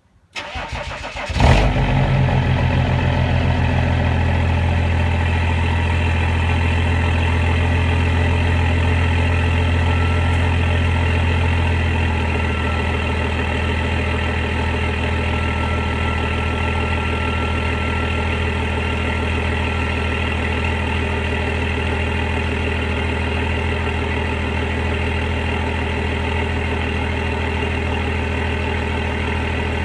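BMW E38 730d's straight-six turbodiesel starting through a straight-piped (no muffler) exhaust: a brief crank, the engine catches with a loud burst, then settles into a steady idle that eases a little quieter about twelve seconds in.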